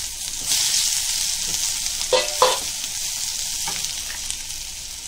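Chopped ginger and garlic sizzling in a little hot oil in a nonstick wok while a silicone spatula stirs them, with a couple of short scrapes of the spatula about two seconds in.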